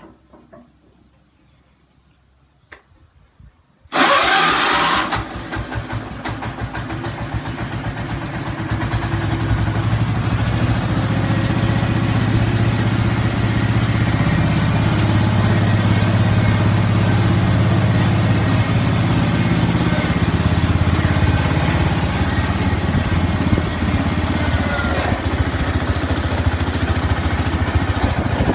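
John Deere 140 garden tractor's freshly rebuilt Kohler 321 single-cylinder engine starting about four seconds in with a sudden loud burst, then running steadily, picking up speed over the next few seconds.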